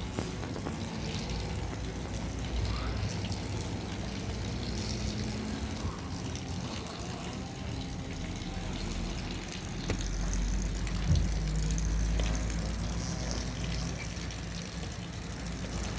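Light rain falling in a steady hiss as a thunderstorm comes in, with a low rumble swelling about ten seconds in.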